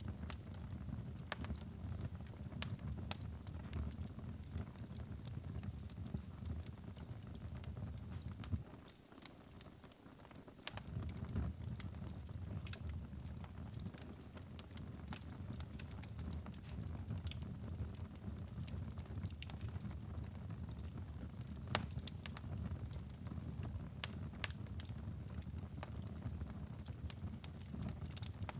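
Wood fire crackling in a fireplace: irregular sharp pops and snaps over a low steady rush of the flames. The low rush drops away for about two seconds around nine seconds in while the crackles go on.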